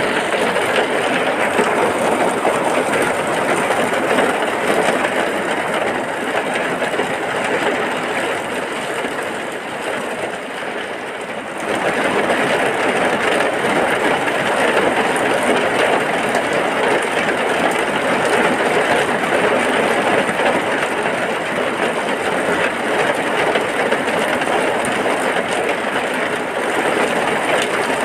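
Heavy rain falling steadily as a dense, even hiss, easing slightly for a couple of seconds before coming back full force suddenly about twelve seconds in.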